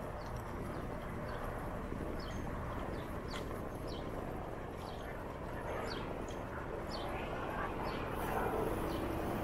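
Steady low rumble of wind and tyres while riding a bicycle over a concrete path. Short, high bird chirps repeat about once a second over it from about two seconds in.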